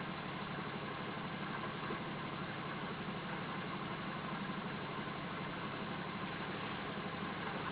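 Small water-cooled walking-beam Stirling engine running steadily, an even mechanical sound.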